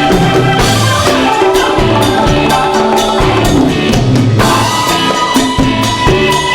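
Live rock band playing: a drum kit keeping a steady beat under held organ chords, likely a Hammond organ.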